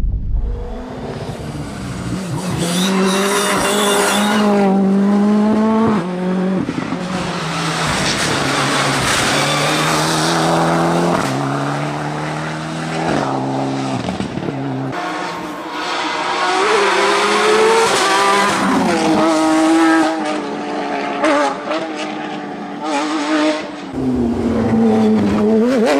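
Rally cars driven hard, engines revving up through the gears with a drop in pitch at each shift, with tyre squeal at times; several passes follow one another.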